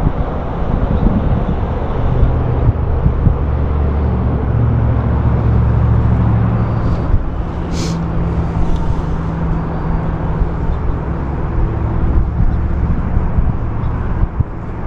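Low, steady engine hum of a passing motor vehicle, swelling in the middle and fading, over a rumble of wind or ambient noise, with a single short sharp click about eight seconds in.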